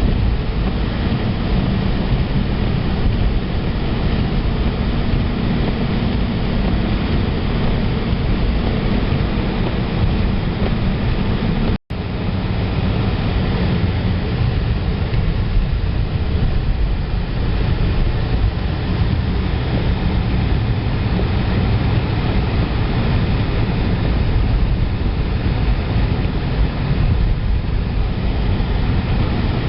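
Steady road and engine rumble of a car being driven, heard from inside the cabin. It cuts out for an instant about twelve seconds in.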